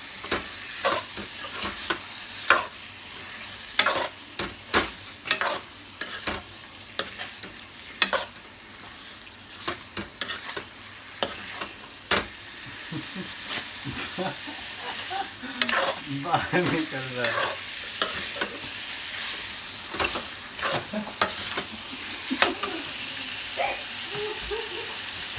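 Chicken liver and gizzards frying in browned masala in a kadhai, sizzling steadily, with a spoon scraping and knocking against the pan as they are stirred.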